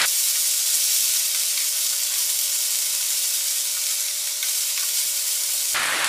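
Onions and ginger-garlic paste sizzling steadily in hot oil in a non-stick pan over a high flame, stirred with a wooden spatula. This is the paste being fried to cook off its raw smell.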